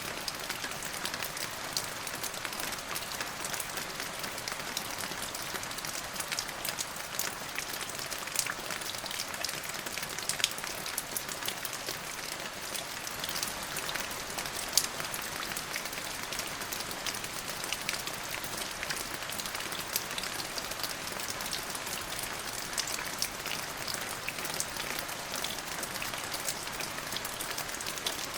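Steady rain falling, an even hiss with many sharp close drop impacts scattered throughout; no thunder is heard.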